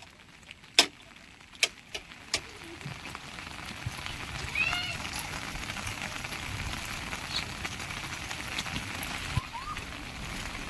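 Steady rain falling on surfaces, starting about two seconds in after a few sharp knocks. A brief high chirp comes about halfway through.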